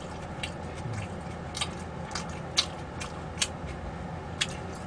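Close-up eating sounds: a person chewing, with about six sharp mouth clicks and smacks at irregular spacing.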